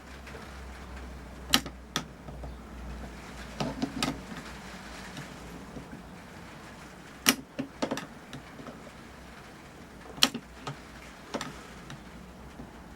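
Scattered sharp clicks and light taps from handling small metal measuring tools, a dial bore gauge held between the anvils of a micrometer while it is being zeroed, over a low steady hum.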